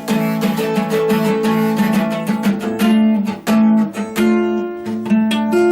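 Guitar strumming chords, the plucked strokes coming in a quick, steady run.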